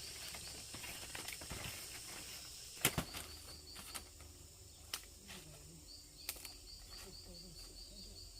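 A few scattered sharp knocks or taps, the loudest about three seconds in, over a faint background of quick, evenly repeated high chirps.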